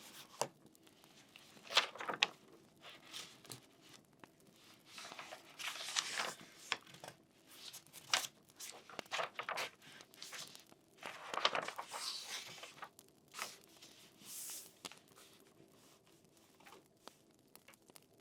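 Paper rustling and crinkling in short, irregular swishes with a few sharp clicks, as pages are handled and turned.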